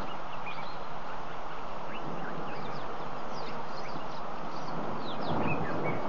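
Wild birds calling with many short, quick chirps and downward-sweeping notes, scattered irregularly, over a steady rushing background noise that swells a little near the end.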